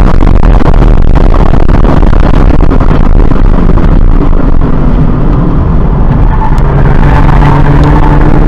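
Cabin sound of a 2017 Subaru BRZ's 2.0-litre flat-four on track. Loud wind and road noise at high speed fades as the car slows hard, and the engine's steady note comes through in the second half, rising gently near the end as it picks up again.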